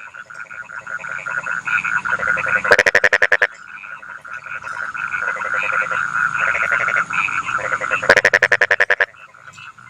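A chorus of rice-paddy frogs calling steadily. Twice, about three seconds in and again near the end, a nearby frog breaks in with a loud, rapid rattling train of croaks lasting about a second.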